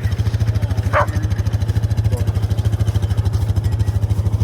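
A small engine running at a steady idle with a fast, even pulse. A brief sharp sound about a second in.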